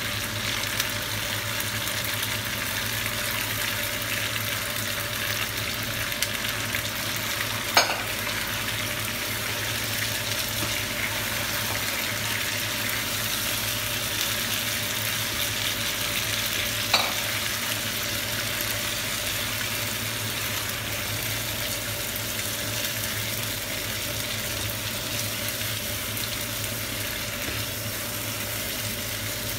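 Boiled mutton pieces sizzling steadily in hot oil in a frying pan as they are stirred with a wooden spatula, the leftover cooking liquid being fried off. Two sharp knocks of the spatula on the pan, one about eight seconds in and another near seventeen seconds.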